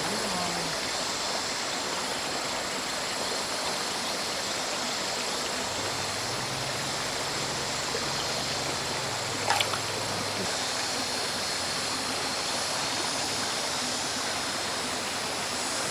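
Mountain stream water running steadily over rocks, with one brief sharp knock about nine and a half seconds in.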